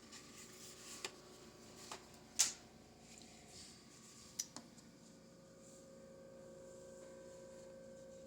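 Quiet room tone with a faint steady hum and a few soft taps and clicks from handling the brush and palette while painting; the loudest tap is about two and a half seconds in.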